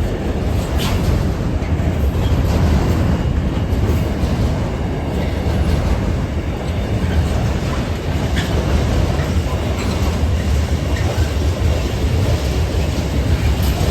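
Freight train hauled by a GBRf Class 66 diesel locomotive rolling across the level crossing: a steady heavy rumble of wagons on the rails with occasional wheel clicks over the joints.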